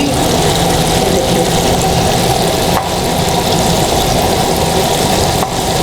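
Flour-coated chicken breast deep-frying in hot oil, a steady dense sizzle.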